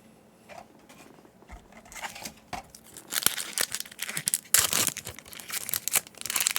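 A foil Yu-Gi-Oh booster pack wrapper being torn open and crinkled. The dense crackling starts about two seconds in and gets louder about a second later.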